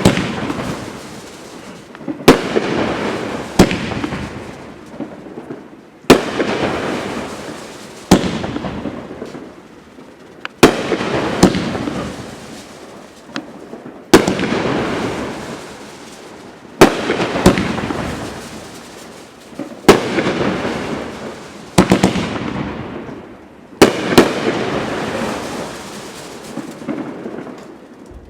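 500-gram consumer aerial fireworks going off: about a dozen sharp bangs every one to three seconds, each followed by a fading crackle.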